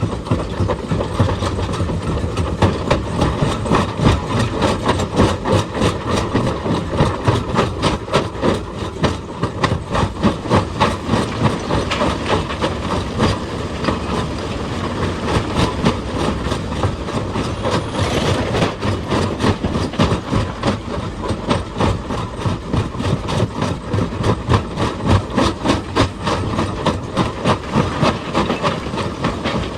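Excavator-mounted hydraulic rock breaker hammering stone: rapid, evenly repeated impacts, several a second, over a steadily running diesel engine.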